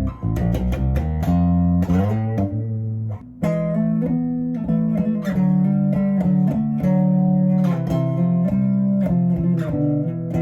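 Rickenbacker 4003 electric bass played through an Aguilar Tone Hammer 500 amp with the pickup selector switched up to the neck pickup alone. It plays a melodic line of sustained notes, with a short break about three seconds in.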